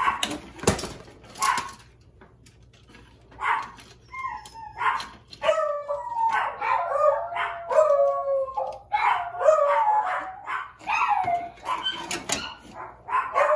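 Dogs whining and howling from about five seconds in, several calls overlapping, their pitch bending up and down. A few sharp clicks in the first second and a half.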